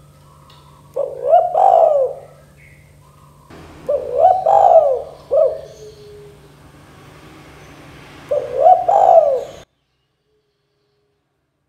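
Spotted dove (tekukur) cooing: three coo phrases, each a quick run of rising-and-falling notes, a few seconds apart. The sound cuts off abruptly near the end.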